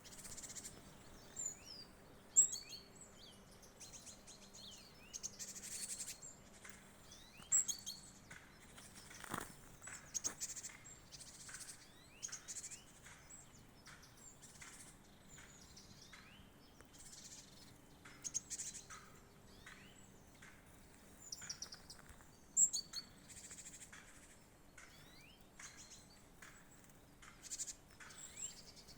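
Small songbirds chirping and calling, short high-pitched chirps and trills coming thick and fast, with a few sharper, louder calls standing out.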